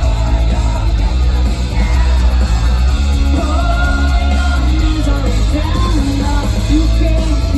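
Live rock band playing loudly, with a woman singing lead over guitars and heavy bass.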